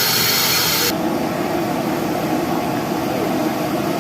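Test noise played loud through a large carnival sound system during an RTA tuning check. About a second in, the highs cut off abruptly, leaving a steady band of lower-mid rushing noise.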